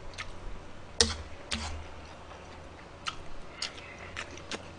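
Close-miked chewing of a mouthful of fried rice: a string of short, irregular wet clicks and smacks of the mouth, the loudest about a second in.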